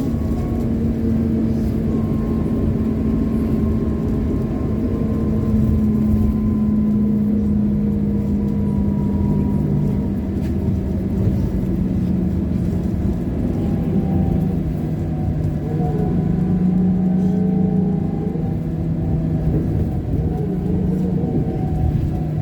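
Trolleybus on the move: road rumble under a steady electric hum whose pitch sinks slowly, with wavering higher tones joining in the second half.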